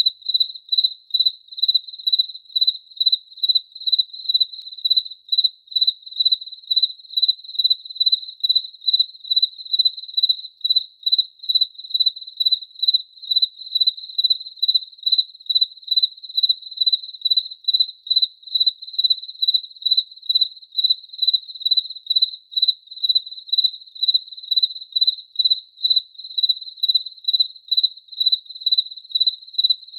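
A cricket chirping steadily in an even, unbroken rhythm of about two to three high, pure-toned chirps a second.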